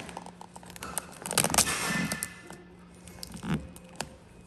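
Vinyl wrap film being handled and worked: a burst of crackling and scraping about a second and a half in, then a few lighter clicks, over a steady low hum.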